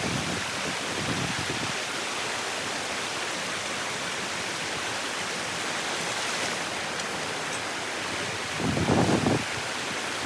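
Steady outdoor rushing hiss, with a gust of wind buffeting the microphone for about a second near the end.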